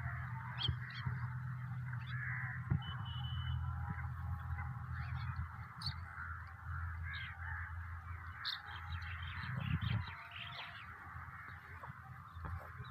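Many birds calling at once in a dense, continuous chatter, with sharper single calls standing out here and there, over a steady low hum.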